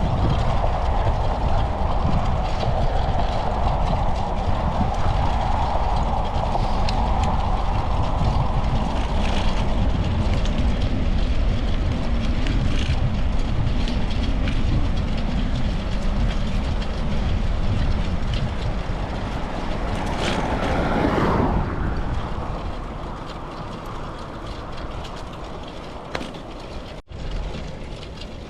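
Road noise from a moving bicycle: steady rumble and wind on the microphone, with a sound sliding down in pitch about twenty seconds in, after which it gets quieter.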